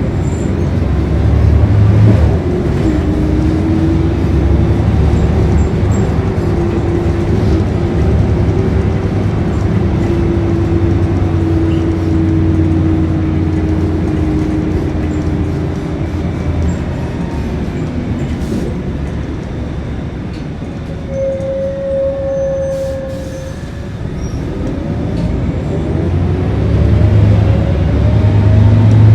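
Scania L113CRB city bus under way, its rear-mounted 11-litre six-cylinder diesel running with a steady whine from the driveline. The bus eases off about two-thirds of the way through and then pulls away again near the end.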